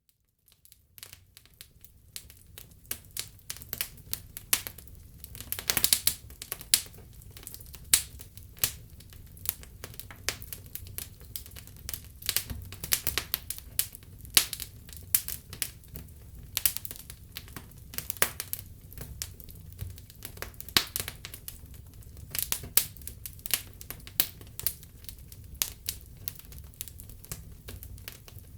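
Wood fire burning in a fireplace: frequent irregular crackles and sharper pops over a low steady rumble of the flames, fading in over the first second or two.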